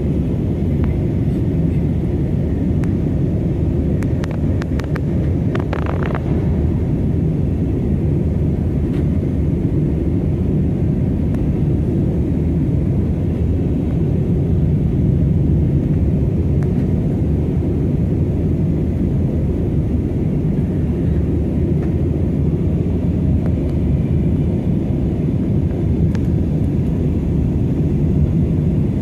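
Airbus A320 cabin noise in flight: a steady low rumble of the jet engines and airflow, with a few faint clicks about four to six seconds in.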